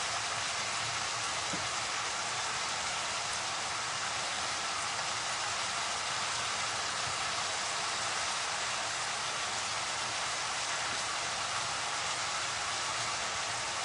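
Fish, potato and long-bean curry sizzling steadily in hot oil in a pan, still frying before any water goes in.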